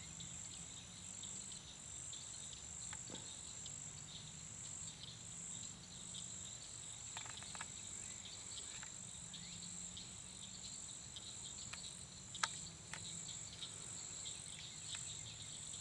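Chorus of insects such as crickets in a swamp, a steady high-pitched trill that pulses evenly about twice a second, over a low steady hum. A few faint ticks come through in the second half.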